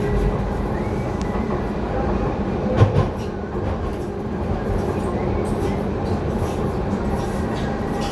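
Docklands Light Railway train running along the track, heard from inside the car: steady rumble of wheels and motors, with a single loud knock about three seconds in.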